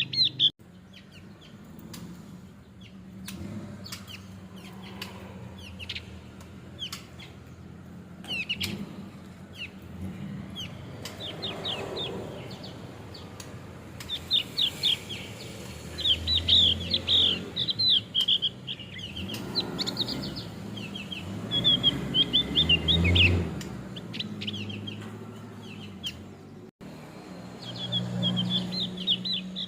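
Male Javan grey-throated white-eye singing: fast runs of high, sharp chirping notes, sparse at first and coming in dense bursts from about halfway through and again near the end.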